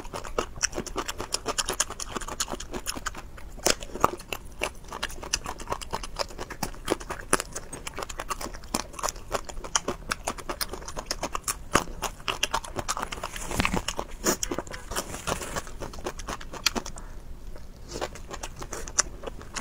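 Close-miked eating: a person chewing with rapid wet smacking and crunchy clicks, with a short pause near the end.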